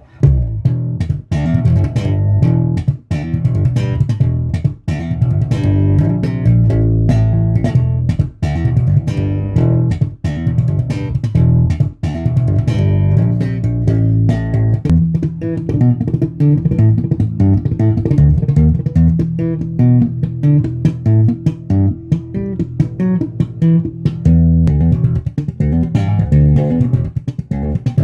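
Fender Precision Bass played through a Mesa Boogie Subway bass amp: an unaccompanied bass line of plucked notes, with most of its weight in the low end.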